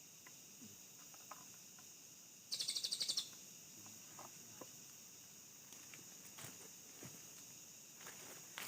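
Forest ambience: steady high-pitched insect buzzing, broken about two and a half seconds in by a short, rapid high trill of about eight notes, with faint scattered clicks.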